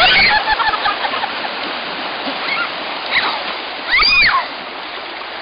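Pool water rushing and splashing out through the broken pool wall in a steady gush, with a short high squeal from a voice about four seconds in.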